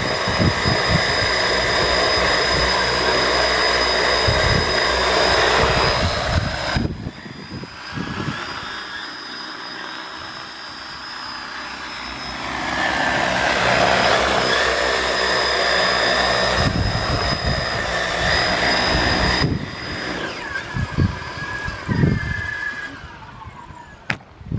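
Multirotor crop-spraying drone in flight, its rotors giving a steady whine and hiss. The sound drops away about seven seconds in, swells again about halfway through as it comes back, then falls off and fades near the end.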